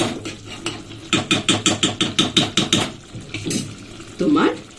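Spatula stirring chicken curry in a cooking pan: a quick, even run of scrapes against the metal, about six a second, over a low frying sizzle.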